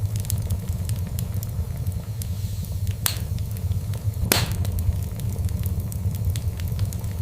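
Fire in a fireplace crackling over a steady low rumble, with many small snaps and two louder pops about three and four seconds in, the second the loudest.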